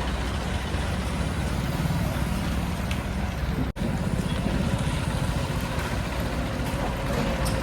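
Tractor diesel engine running steadily with a low, even pulsing rumble, broken by a split-second dropout a little under four seconds in.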